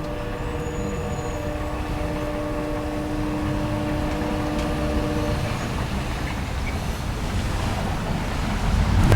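Train horn sounding one long held chord that stops about five seconds in, over the rumble of an approaching train, which grows louder near the end.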